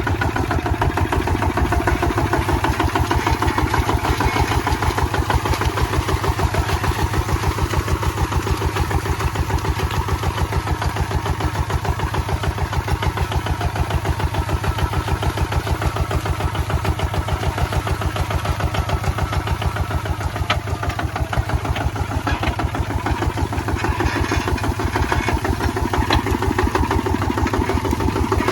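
Kubota ZT155 single-cylinder diesel engine running steadily while plowing, its firing strokes a fast, even chug.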